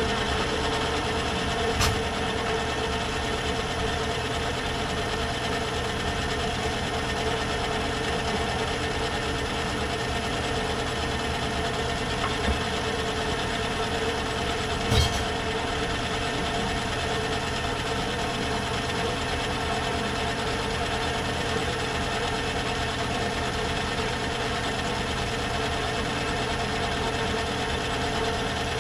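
Myford lathe running steadily at low speed, its change-gear train humming because a very small gear is fitted on the drive. Two short clicks, about two seconds in and about halfway through.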